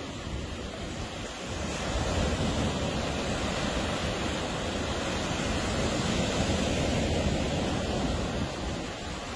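Ocean surf: a wave swells up about a second and a half in, washes in for several seconds, and eases off near the end.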